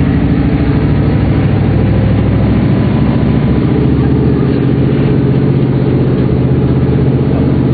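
Pickup truck engine running loudly at steady revs, with no rise or fall in pitch.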